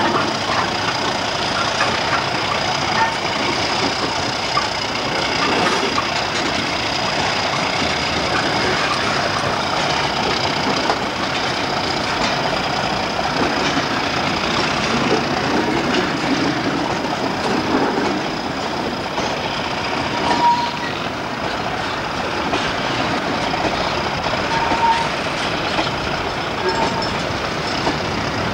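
Freight train of bogie tank wagons rolling steadily past, the wagon wheels running on the rails with a continuous, even noise.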